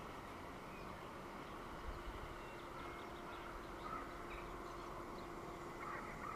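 Faint steady outdoor background noise with a few faint, short bird chirps scattered through it.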